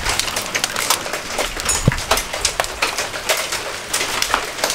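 Heavy rain falling, with many irregular sharp drops and drips clicking on hard surfaces.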